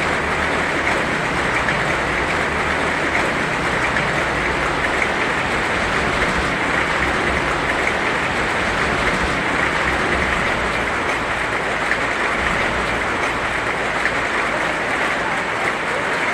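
Heavy rain falling steadily: an even, dense hiss with a low rumble underneath.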